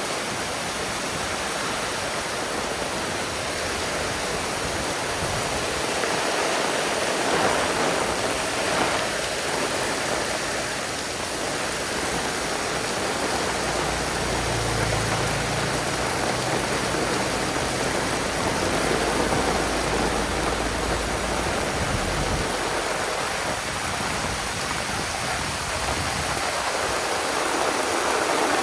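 Heavy rain pouring down steadily, a dense even hiss of water, with a low rumble underneath for several seconds around the middle.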